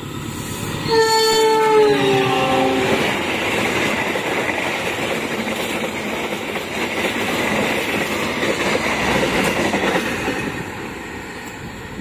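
A CC206 diesel-electric locomotive hauling an express passenger train passes at speed. Its horn sounds about a second in for roughly two seconds, the pitch dropping as the locomotive goes by. The carriages then rush past with a steady clatter of wheels on rail that eases off near the end.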